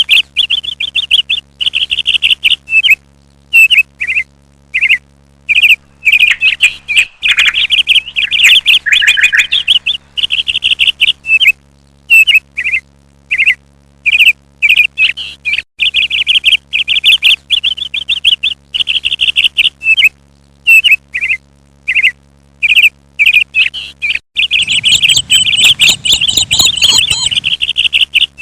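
Small birds chirping in quick runs of rapid chirps, each run lasting about a second with short pauses between. Near the end a louder, rougher stretch of about three seconds sounds under the chirping.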